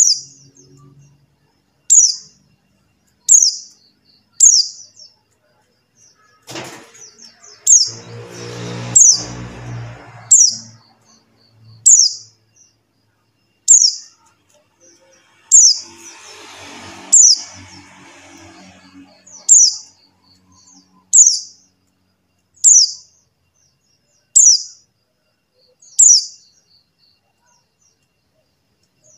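Buxtoni white-eye (pleci buxtoni) giving its call: a short, sharp chirp that sweeps down in pitch, repeated about every second and a half, with soft ticking notes between. Twice a low rumbling background noise rises for a few seconds.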